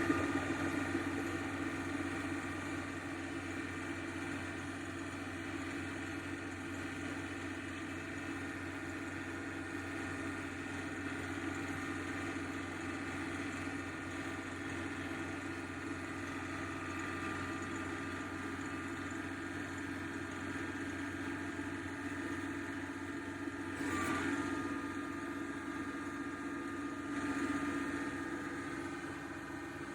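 A steady mechanical hum, engine-like, with several held tones. It swells briefly about 24 seconds in and again about 27 seconds in.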